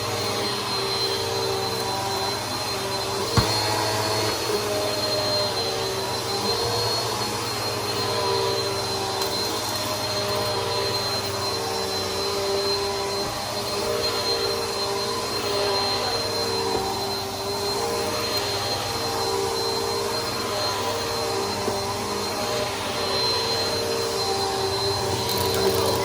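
Bissell PowerForce Helix upright vacuum running steadily, a motor drone with a constant high whine whose lower hum wavers as the vacuum is worked. There is one sharp knock about three seconds in.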